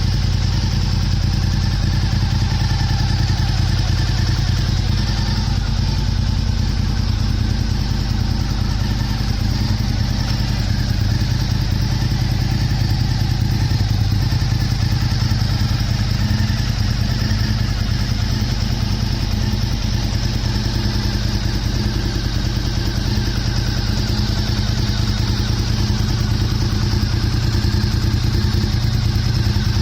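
Honda RVT1000R's 90-degree V-twin running steadily at idle through an aftermarket LeoVince muffler.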